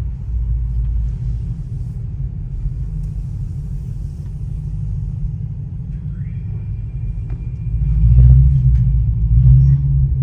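Straight-piped Audi S7 exhaust giving a loud, deep rumble while driving, swelling louder about eight seconds in.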